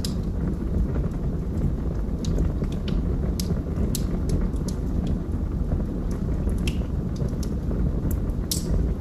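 Log fire burning in a fireplace: a steady low rumble of flames with scattered, irregular sharp crackles and pops from the burning logs.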